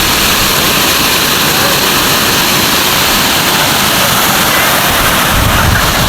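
Waterfall pouring, a steady rush of falling water, with a deeper rumble coming up about five seconds in.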